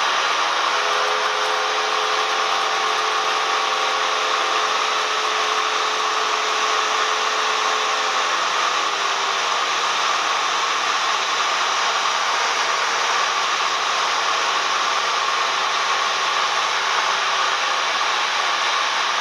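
Cessna 172M's engine and propeller running steadily, heard inside the cabin as a dense, even hiss. A hum of several tones under it fades out about halfway through.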